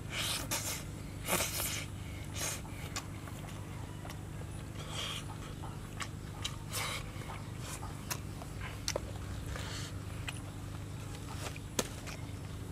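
A person eating cooked fish: irregular wet chewing and lip-smacking sounds with small clicks, over a steady low background hum.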